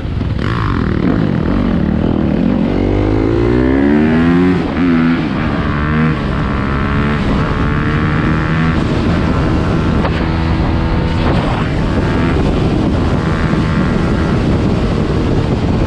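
Several dirt bike engines revving up and down at once, their pitches rising and falling over one another.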